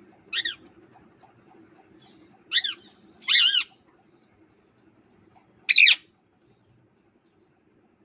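Parrot giving four short harsh squawks a second or two apart, the third and fourth the loudest.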